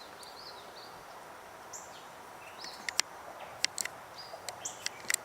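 Small birds chirping in short, high notes over a steady outdoor background, with a few sharp ticks in the second half.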